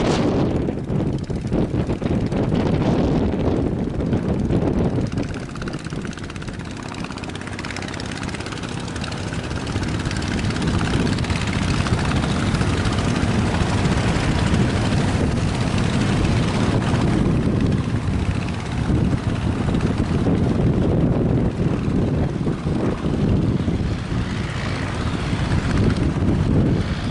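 Strong gusting wind blowing across the microphone, a loud continuous low rumble that eases briefly for a few seconds before building again.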